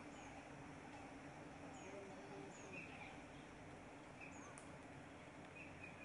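Quiet outdoor background with a few faint, short bird chirps scattered through it.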